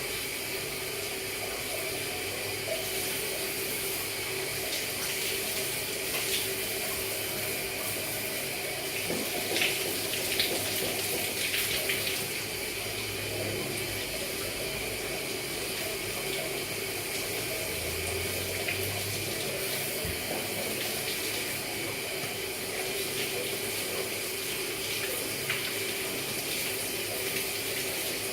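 Shower water running steadily, spraying and splashing onto the floor, with a few louder splashes about ten seconds in.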